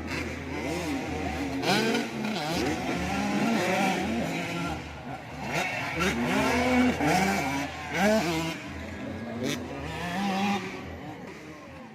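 Several 85cc two-stroke motocross bikes racing, their engines revving up and down over one another with constantly changing pitch. The engine noise eases off near the end.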